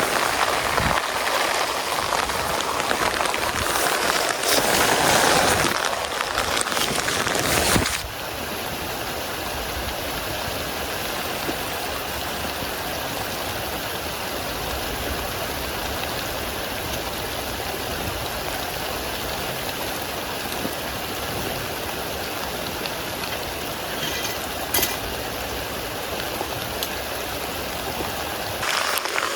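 Heavy rain falling: louder and uneven with sharp drop-like ticks for the first eight seconds or so, then after a sudden change a steadier, softer hiss of rain, with one sharp tick about three-quarters of the way through.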